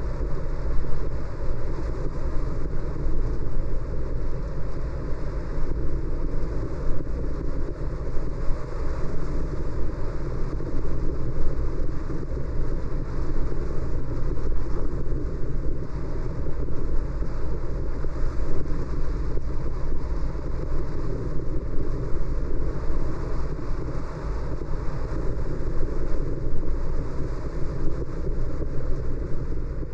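Car driving at steady speed: a constant rush of road and wind noise with a low rumble, picked up by a dashcam.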